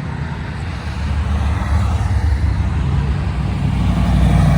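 A classic car's engine rumbling through its exhaust at close range, its low pulsing growing louder as the car draws near.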